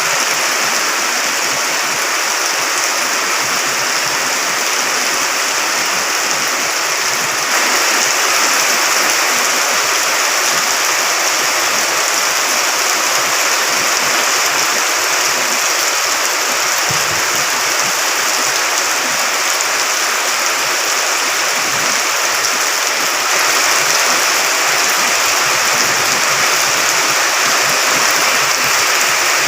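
Water rushing steadily, a loud, even hiss with no separate drops or splashes, the kind of flow that swells after days of continuous rain. It gets a little louder about a third of the way in and again about three quarters of the way through.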